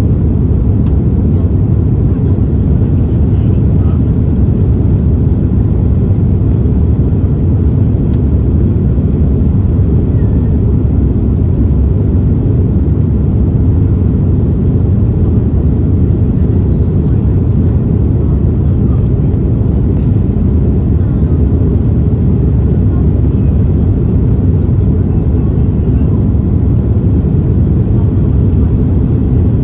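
Airbus A330-300 cabin noise in flight: the steady low rumble of its Rolls-Royce Trent 700 engines and airflow, heard from inside the cabin.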